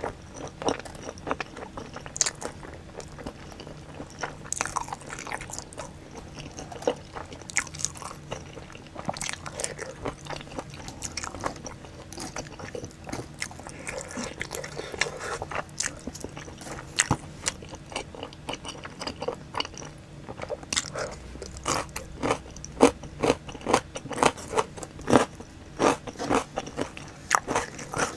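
Close-miked chewing and biting of pizza and sauced boneless chicken, with crunching and many wet mouth clicks. The clicks come thicker and louder in the last third.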